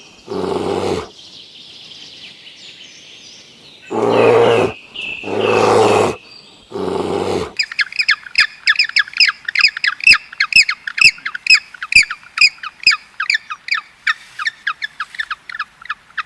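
Four loud, rough animal calls, each about a second long, over a faint whistled bird call. From about halfway, a bird chirps rapidly and evenly, about four short high chirps a second.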